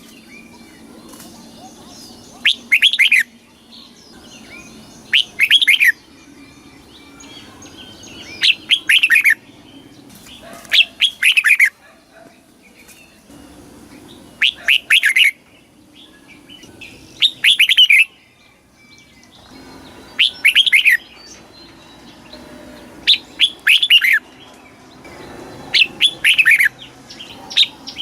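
Red-whiskered bulbul singing: short, loud phrases of a few quick notes, repeated about every two to three seconds.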